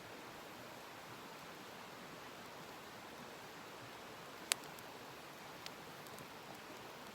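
Faint steady hiss with one sharp snap about four and a half seconds in and a fainter one about a second later, as from wood popping in a small campfire.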